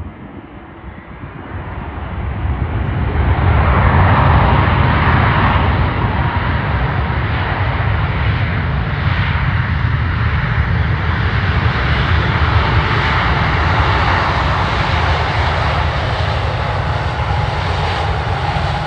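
Jet airliner's engines passing close: the noise builds over the first few seconds, then holds loud with a deep rumble. A whine slowly drops in pitch toward the end as the aircraft moves past.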